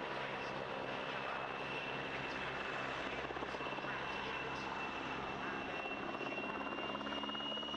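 Czech Air Force PZL W-3A Sokół helicopter flying, its twin turboshaft engines and main rotor running steadily, with a high turbine whine that rises slightly in pitch near the end.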